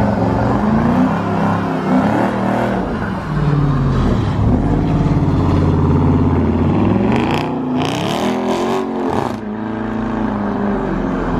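Car engine revving hard, its pitch rising and falling repeatedly, with a few loud hissing bursts about two-thirds of the way through.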